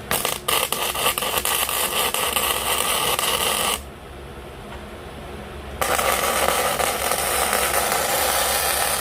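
Electric arc welding: two runs of crackling, frying hiss, the first starting with a few sputtering strikes and stopping abruptly about halfway, the second starting about two seconds later, over a steady low hum. These are tack welds fixing a steel pin mount for a hydraulic cylinder.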